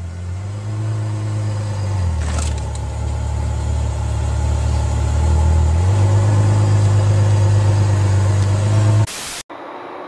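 A car engine running steadily at a low pitch, its note shifting twice, with a brief click about two seconds in. The sound cuts off abruptly near the end.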